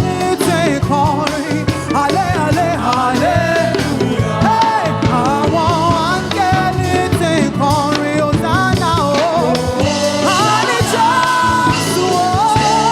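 Live gospel praise-and-worship music: a lead singer's wavering melody over a full band with steady drum hits.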